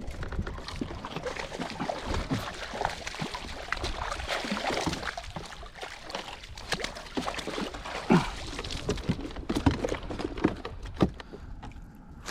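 Water splashing and sloshing as a hooked striped bass is played and brought in at the surface, with scattered small clicks and a few sharper knocks about eight, nine and a half and eleven seconds in.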